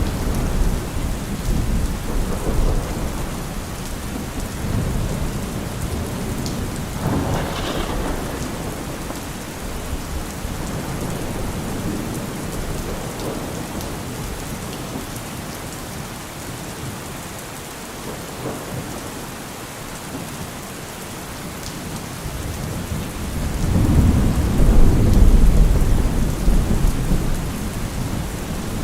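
Steady rain falling, with rolling thunder rumbling in low swells, the loudest peal about 24 seconds in.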